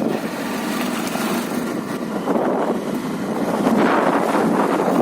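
Motorcycle running on the move, its engine sound blended with a steady rushing noise. It gets a little louder about three and a half seconds in.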